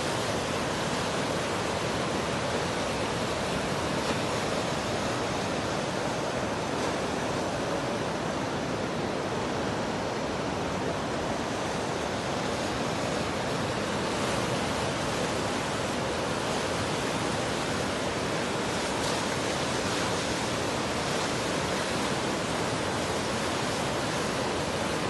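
Swat River in heavy flood: a steady, unbroken rush of fast-moving floodwater.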